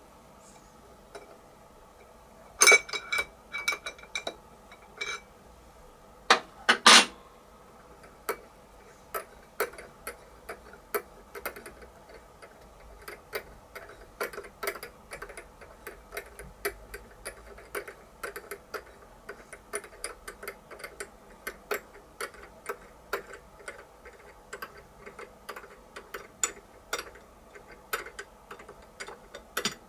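Hand tapping a #4-40 thread in aluminium plate: irregular small clicks and ticks as the tap is turned and backed off, with a few louder metallic clinks in the first seven seconds. A faint steady machine hum runs underneath.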